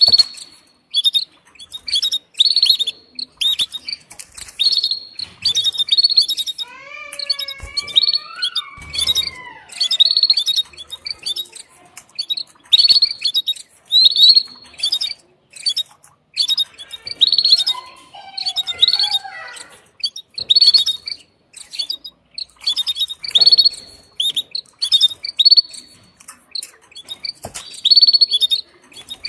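Female canary giving its 'tsts' mating call: short, high chirps repeated about once a second, calling to a male. Twice, about 7 s and 17 s in, a longer, lower call slides up and down in pitch.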